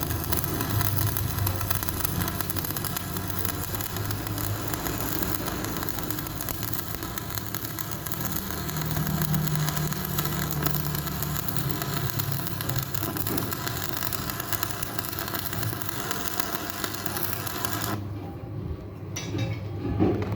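Electric arc welding on a steel truck wheel rim: a steady, loud crackling hiss over the low hum of running machinery. The arc stops about eighteen seconds in, leaving the lower hum.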